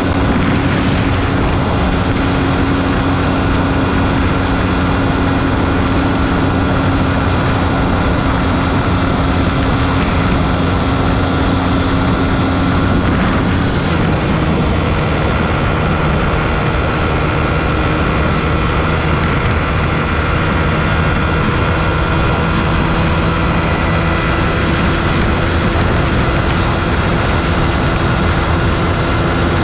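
Beta RR 125 LC enduro motorcycle engine running steadily, its note changing to a different pitch about halfway through.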